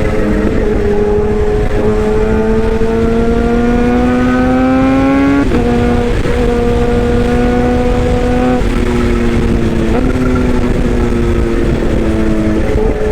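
Toy excavator's electric motor whining steadily. Its pitch climbs slowly for a few seconds, drops suddenly about five seconds in, then shifts in small steps several more times.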